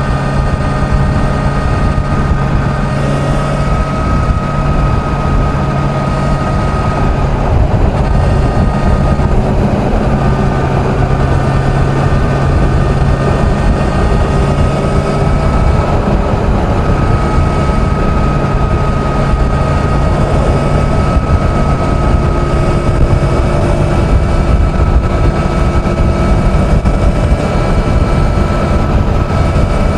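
Kawasaki Z900's inline-four engine running at a steady highway cruise, its pitch holding almost constant, over a dense low rumble of wind and road.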